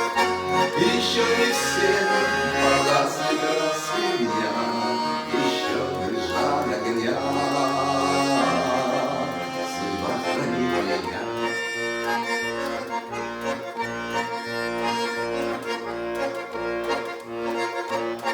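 Accordion playing the wordless ending of a song: sustained chords and melody, with an evenly pulsing bass in the second half.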